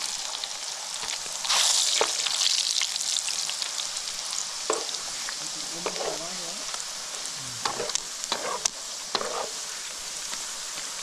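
Food frying in hot oil, a steady sizzle that swells about a second and a half in, with a few short knocks later on.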